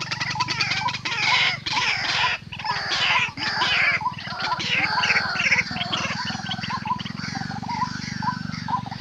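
White-breasted waterhen calls: a busy run of rapid, curving calls, loudest in the first two-thirds, over a short note repeated about twice a second and a steady low hum.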